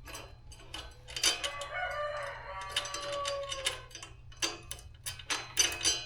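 A rooster crows once: a long call starting about a second in, lasting over two seconds and dropping in pitch at its end. Sharp metallic clinks and clicks of bolts, bushings and tools sound around it.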